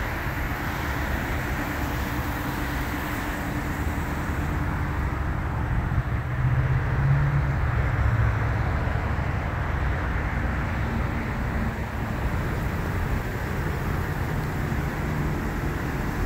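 Steady low hum of a vehicle engine idling, with road traffic noise behind it.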